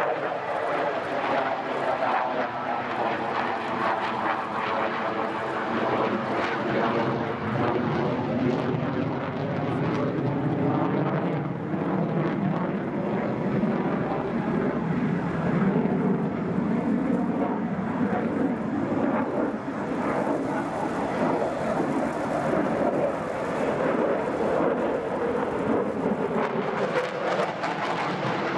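Jet noise from F-15 fighters' twin turbofan engines flying overhead: a continuous loud roar whose tone slowly sweeps up and down as the aircraft move.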